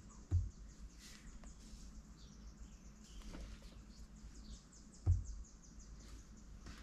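Birds chirping outside, a run of quick high chirps throughout, with two dull thumps, one just after the start and one about five seconds in.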